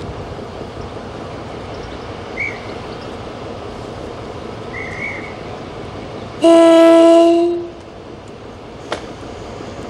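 Diesel locomotive horn sounding one loud blast of about a second, about two-thirds of the way in, over the steady running noise of the train. A single sharp click follows shortly after.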